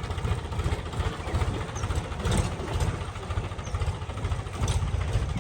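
Diesel engine of a tractor or backhoe idling with a steady low chug.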